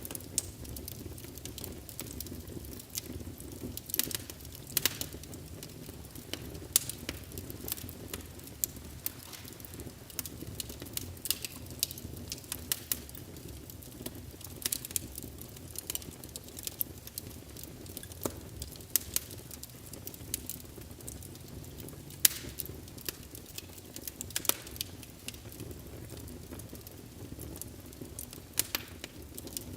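Wood fire in a fireplace, burning logs crackling and popping at irregular intervals over a steady low rush of the flames, with an occasional louder pop.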